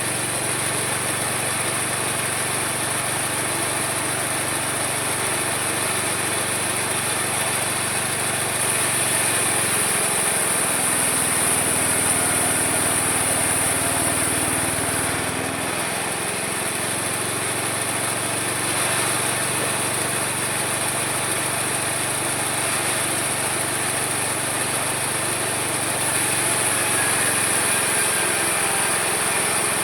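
Homemade mini sawmill running steadily as it saws wood, with a high whine over the machine noise. It gets louder for several seconds about a third of the way in and again near the end.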